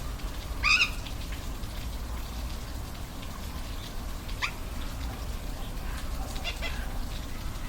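Steady rush of a waterfall with short animal calls over it: a loud call just under a second in, a brief rising call about halfway through, and a couple of fainter calls near the end.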